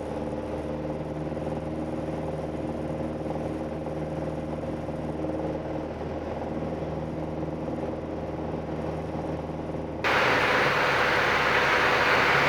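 Steady drone of a light aircraft's piston engine and propeller heard in the cabin, with a constant pitch and dull top end. About ten seconds in, the sound abruptly becomes louder and much hissier as engine and airflow noise.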